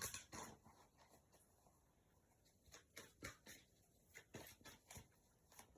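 Faint, irregular taps and rustles of a deck of oracle cards being shuffled and handled, the loudest cluster at the start.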